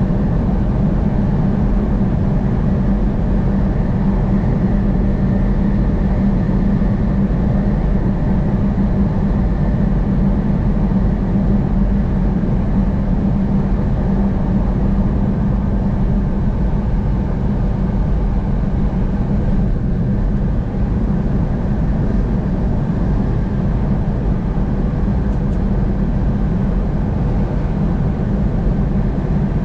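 Steady road and engine noise of a car driving at highway speed, an even low rumble without change.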